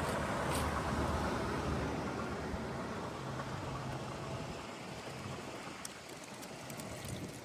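Car engine and road noise: a low, steady rumble that fades over the last few seconds.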